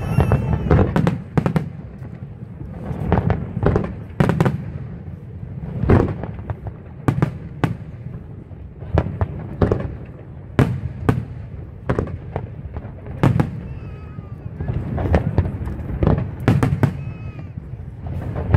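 Aerial fireworks display: shells bursting one after another, many sharp bangs in quick, irregular succession over a steady low rumble.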